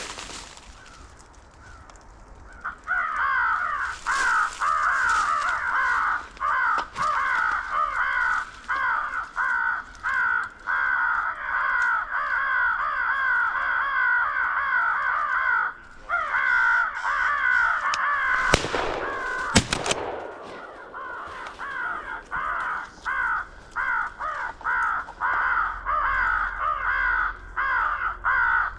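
Electronic crow call playing a continuous string of rapid, repeated crow caws, with a brief break about halfway. Two sharp, loud bangs come about two-thirds of the way through.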